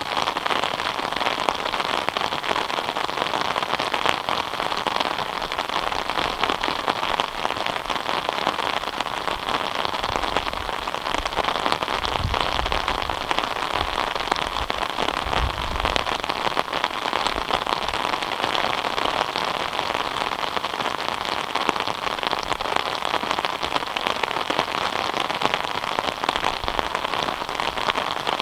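Steady rain falling, a dense, even patter of drops, with a brief low rumble about halfway through.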